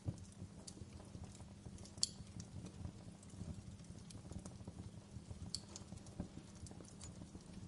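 Wood campfire crackling: irregular sharp pops and ticks over a low, steady rumble, with one louder pop about two seconds in.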